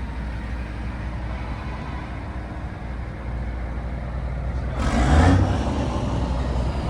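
Low steady rumble of a truck's diesel engine running, with a short, louder burst of noise about five seconds in.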